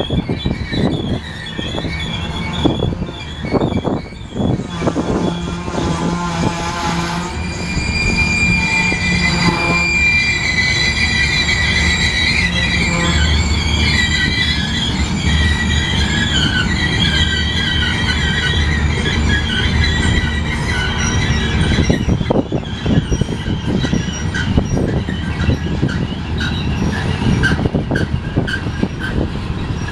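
Union Pacific grain train's covered hopper cars rolling past, steel wheels squealing against the rail in several high tones through the middle stretch, over a steady low rumble. Wheels clack over the rail joints, most plainly near the end.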